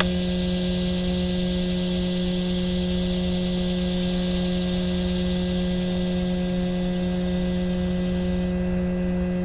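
A steady, unchanging hum with evenly spaced overtones, over a faint high hiss.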